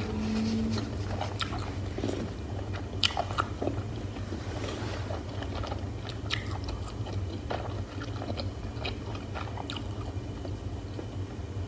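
Close-miked eating sounds from a hotpot meal of beef slices and mushrooms: chewing and biting with many small wet clicks and crunches, over a steady low hum.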